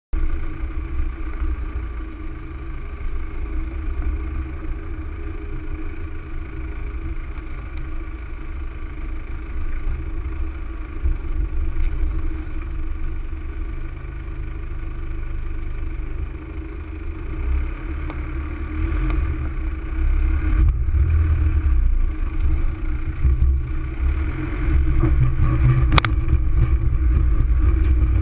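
Four-wheel-drive vehicle's engine running steadily under load as it crawls up a steep, rocky track. It grows louder over the last several seconds, with a single sharp knock about 26 seconds in.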